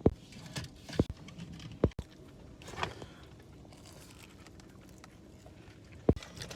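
Crinkling and rustling of a takeout food wrapper being handled, with four sharp clicks or knocks spread through it.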